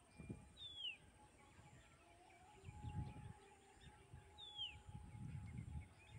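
A bird gives two short, falling whistled calls, about four seconds apart, over a faint, uneven low rumble.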